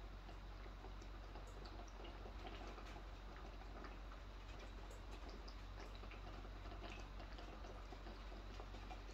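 Typhoon rain and wind heard from indoors: a faint steady rush with many small scattered ticks of drops, over a low steady hum.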